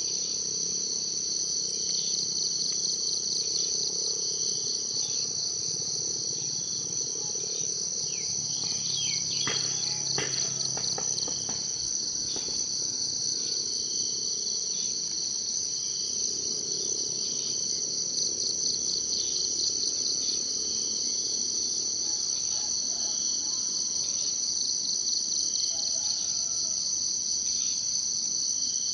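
Steady chorus of insects, a continuous high, finely pulsing trill, with faint short chirps recurring every second or two and a brief cluster of sharper notes about a third of the way through.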